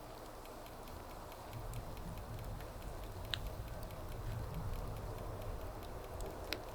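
Wood fire crackling: a steady run of faint small crackles over a low rushing, with two sharper pops of the burning wood, one about halfway through and one near the end.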